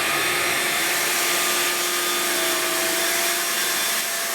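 Cordless stick vacuum's motor running steadily with an even whine as it is swept over carpet, picking up large carpet-freshener granules.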